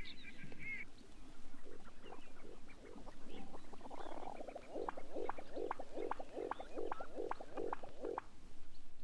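Sharp-tailed sandpiper display song: a long run of low, rhythmic pulses, about three a second, with short clicks on top, ending about a second before the end. It opens with the last of some higher calls.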